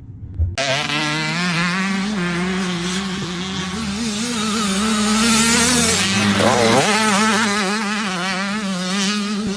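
Dirt bike engine running hard at high revs, its pitch wavering with the throttle. It cuts in suddenly about half a second in, and about two-thirds through the revs drop sharply and climb again.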